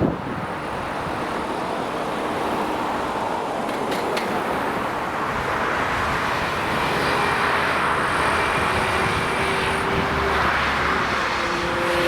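Vehicle noise building up slowly: a broad rumble, with a few faint steady tones coming in from about halfway through. A short click right at the start.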